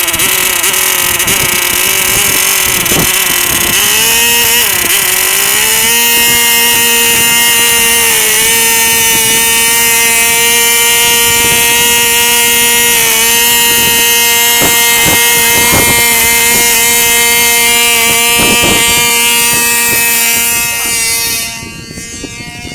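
Small model engine of a control-line airplane running at a high, steady pitch. It speeds up to a higher pitch about five seconds in, holds there, and fades away near the end.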